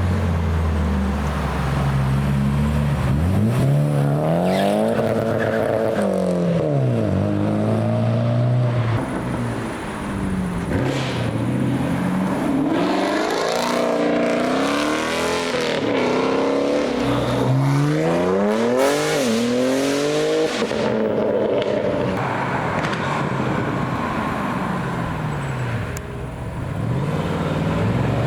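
Several performance cars accelerating hard one after another, engines revving up through the gears with repeated rising and falling pitch. A low, steady engine note is heard at the start.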